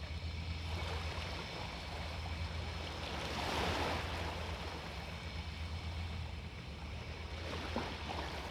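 Sea waves washing onto a beach, one wave surging up louder about three seconds in and then falling away, over a steady low rumble.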